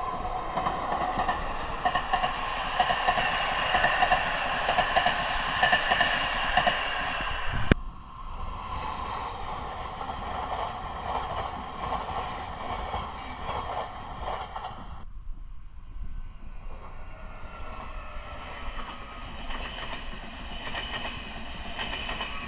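Train running on rails, a steady rumble with several high whining tones over it. The sound changes abruptly about eight seconds in and again around fifteen seconds, as from one train passage to another.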